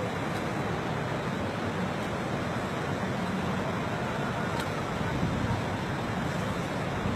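Floodwater rushing in a strong current, a steady even noise with no breaks.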